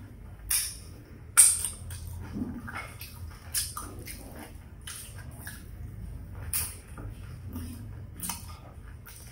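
Close-up eating sounds: chewing and wet mouth smacks from someone eating fried chicken with rice, with irregular sharp clicks, the loudest about a second and a half in.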